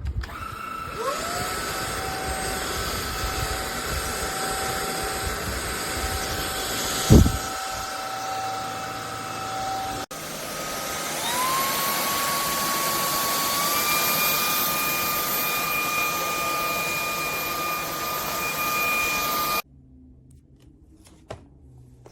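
Cordless stick vacuum's motor spinning up to a steady high whine, with a sharp knock about seven seconds in. It breaks off briefly near ten seconds and spins up again, steps up in pitch a few seconds later, then cuts off suddenly near the end.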